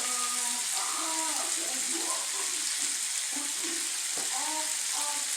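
Chicken searing in hot oil in a frying pan, sizzling with a steady high hiss.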